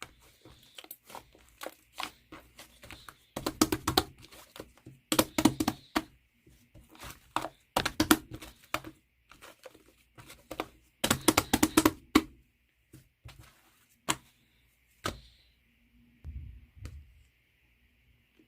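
Clay-type slime being squished and pulled by hand, giving crinkly crackling and popping in several dense bouts with short pauses between, thinning to a few single clicks near the end.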